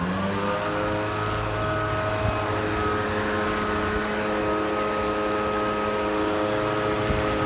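Diesel engine of a 2003 Blue Bird International 3800 school bus under way: its pitch climbs as it picks up speed at the start, then holds as a steady drone.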